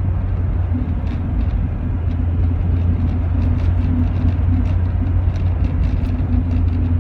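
Steady drone of a Rover 45 heard from inside the cabin while driving: low engine hum and road noise at an even level, with faint scattered light ticks.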